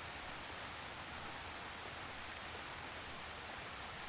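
Steady gentle rain, an even patter of drops with faint scattered high ticks.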